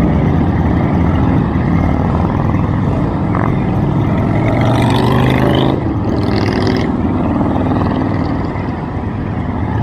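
Many motorcycle engines running together, a loud continuous V-twin rumble of a passing group of bikes, with a brief louder, hissier swell about halfway through.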